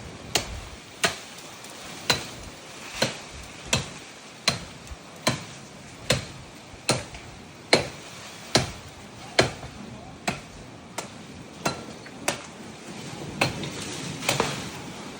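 Branches being chopped by hand with a blade: a steady run of sharp chopping strokes into wood, about one a second.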